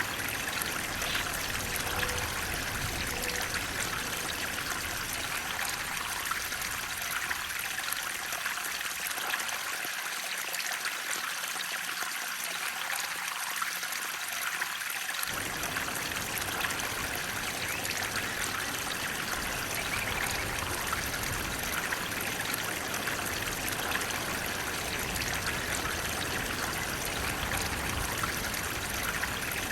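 Flowing water running steadily, a continuous rushing, trickling sound. The low rumble fades out for several seconds in the middle and comes back suddenly.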